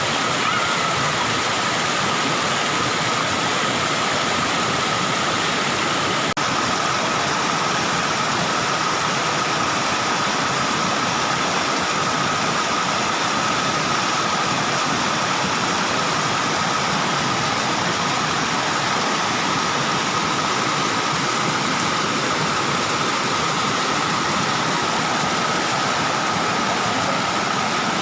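Waterfall: water pouring steadily, an even rushing roar, with a thin steady high tone running through it.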